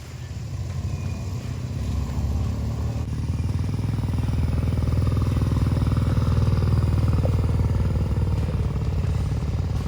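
Motorcycle engine running, growing louder over the first few seconds and then holding steady, as if the bike is coming closer.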